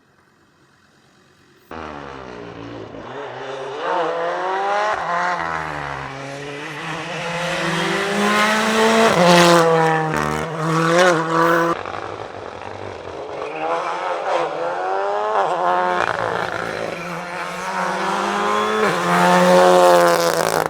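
Rally car engine revving hard under load, its pitch repeatedly climbing and dropping through gear changes and lifts. It starts abruptly about two seconds in and is loudest near the end.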